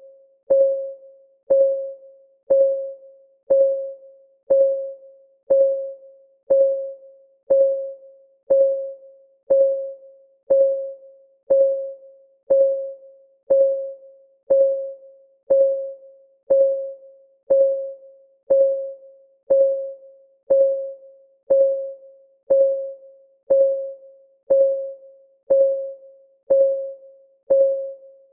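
Countdown timer's ticking clock sound: one tick a second, each a sharp click with a short ringing tone that dies away before the next.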